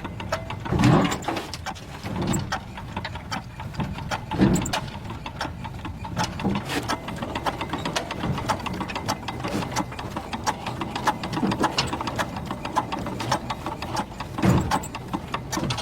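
Rapid, irregular mechanical clicking and clatter over a steady low hum, with a few louder thumps.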